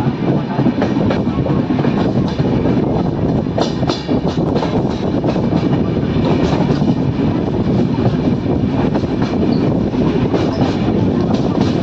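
Express passenger train running at speed, heard from an open coach doorway: a steady rumble of wheels on rail with continual rattling and clacking of the coaches.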